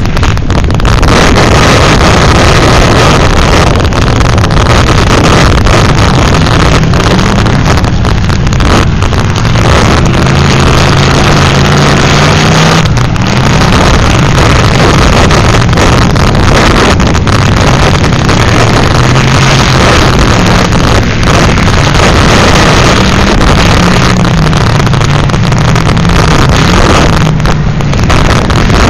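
Demolition derby car engines running and revving, their pitch rising and falling, under loud wind buffeting the microphone.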